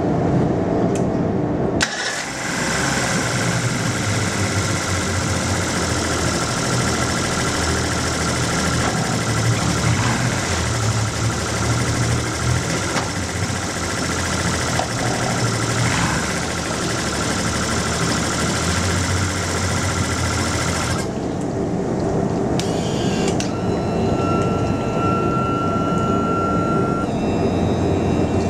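Tohatsu MD50B outboard motor, a two-stroke, catching about two seconds in and then running steadily. About 21 seconds in the sound changes as the high hiss drops away, and a thin steady whistle is heard for a few seconds after that.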